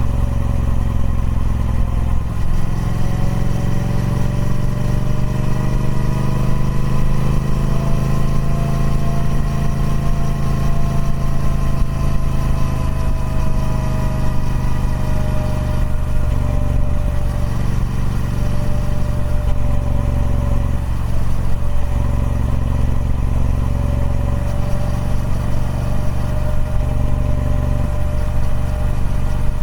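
Triumph Speed Twin 1200's parallel-twin engine running through its stock exhaust, its note rising slowly to a peak about ten seconds in, then easing off and shifting in steps.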